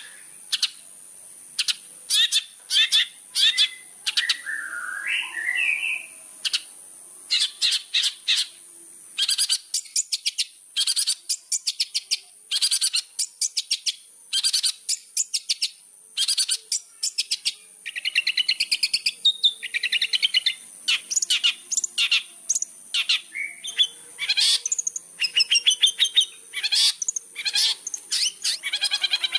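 Long-tailed shrike (cendet) in full song, a fast chattering stream of short notes repeated in quick bursts, broken by a few warbled, gliding phrases.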